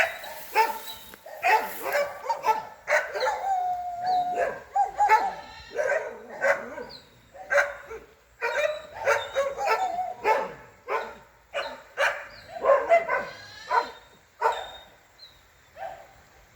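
A dog barking over and over, about one or two barks a second, with one longer drawn-out note about four seconds in; the barking stops shortly before the end.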